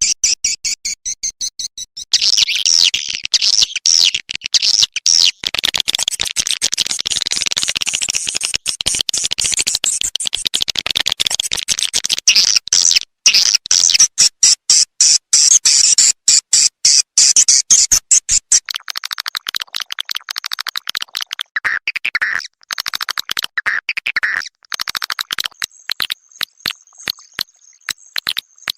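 Swiftlet lure-call recording: a dense, rapid twittering of high-pitched swiftlet chirps and clicks, of the kind played to draw swiftlets into a nesting house. A little over halfway through the lower part of the chirping drops out and only the higher chirps go on, with a thin steady high tone near the end.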